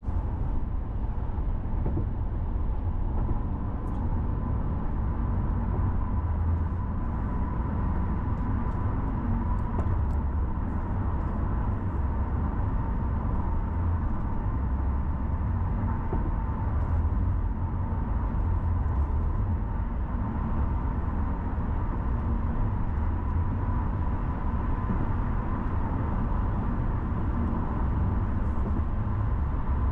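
Car driving on city roads: a steady low rumble of engine and tyres on the road, with a faint steady whine over it and a few light ticks.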